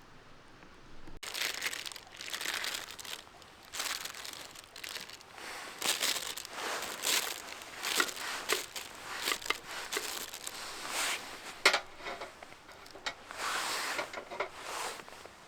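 Crinkly material being handled and crumpled, a dense run of irregular rustling, crackling strokes that starts abruptly about a second in.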